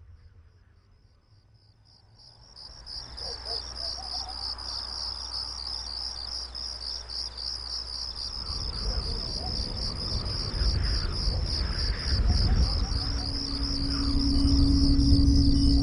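Crickets chirping in a steady, even pulse, fading in over the first few seconds. A low rumble builds from about halfway, and a steady low hum joins near the end.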